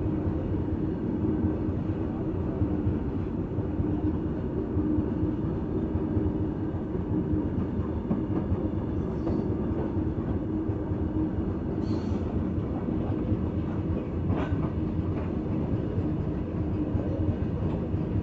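Freight train of open wagons rolling past: steady wheel-on-rail noise with a hum, and a single sharp knock about three-quarters of the way through.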